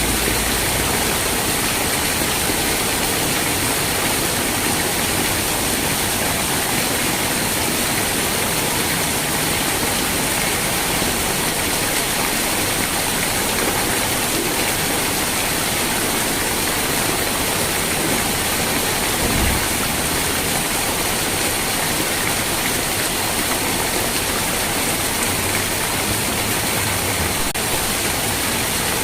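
Steady rain falling, an even, unbroken hiss, with a faint low thump about two-thirds of the way through.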